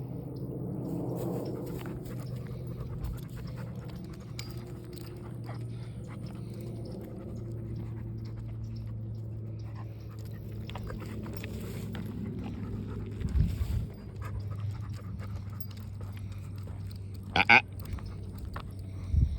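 A dog barks twice in quick succession, sharp and loud, a few seconds before the end, over a steady low hum and light scattered ticks. A couple of dull low thumps come shortly before the barks and again just after them.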